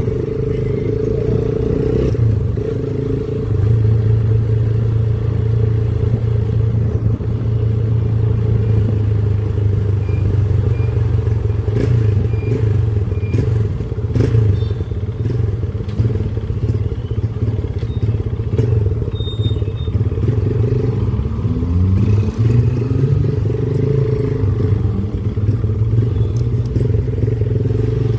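Motorcycle engine running steadily while riding, its note rising as the bike accelerates about three quarters of the way through.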